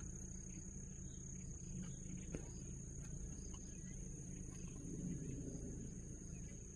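Insects keeping up a steady high-pitched drone, over a low rumble, with a faint tick about two and a half seconds in.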